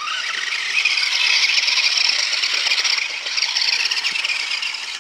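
Electric remote-control car's motor and gears whining steadily at high throttle, cutting off suddenly at the end.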